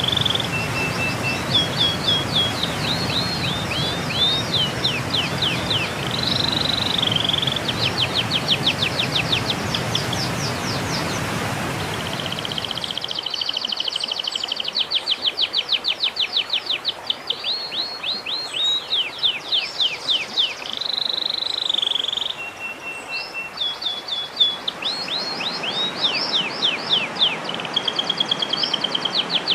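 Recorded songbird song played as a masteran tutor track: fast runs of descending whistled sweeps and trills, broken by short held notes. A background hiss under the song drops out about 13 seconds in, where the recording changes.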